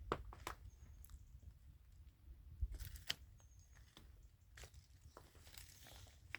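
Scattered crunching and rustling with a few sharp clicks, loudest about three seconds in and again near the end, over a faint low rumble.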